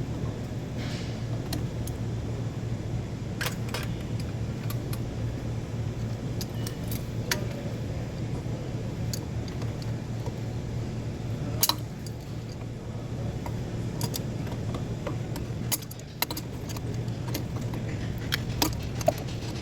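Scattered sharp metallic clinks and taps, like hand tools and small metal parts knocking together, over a steady low hum.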